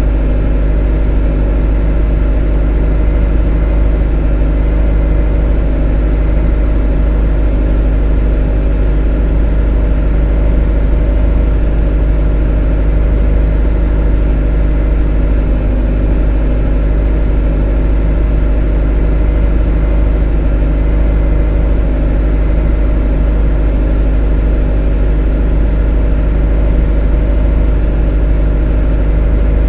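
A motor running at a constant speed: a steady, unchanging drone with a strong low hum and many steady tones above it.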